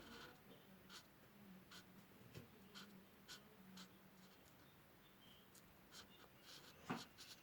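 Faint scratching of a drawing tool on paper: short colouring strokes about two a second, over a faint steady hum, with a sharper tap near the end.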